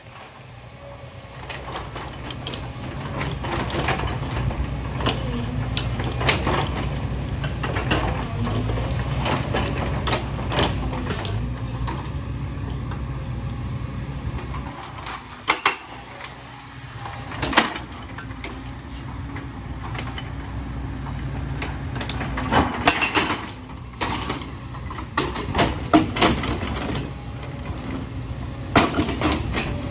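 Hyundai excavator's diesel engine running under load, growing louder over the first few seconds, with the bucket and tracks scraping and clanking in a string of sharp knocks, the loudest about halfway through and near the end.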